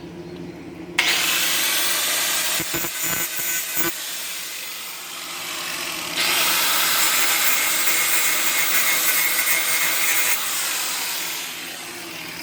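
Gasless flux-core wire-feed welder arc crackling and hissing as a bead is laid, in two runs: one starting about a second in, a second from about six to ten seconds.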